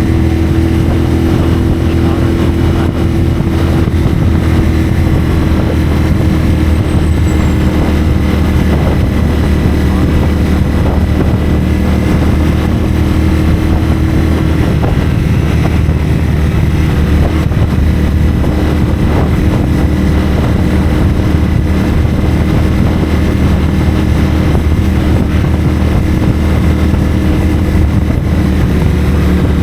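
A CFMoto 450SR motorcycle's parallel-twin engine running through a Yoshimura AT2 slip-on exhaust, held at a steady cruising speed. The engine note steps down slightly about halfway through.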